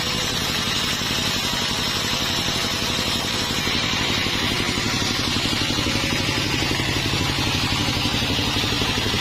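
A sawmill's engine running steadily with a fast, even firing pulse.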